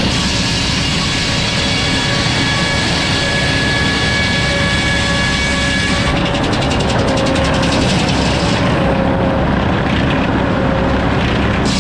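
Sawmill running and sawing a log: a steady machine hum under a high hiss and a whine. About halfway through the high hiss falls away, and it comes back near the end.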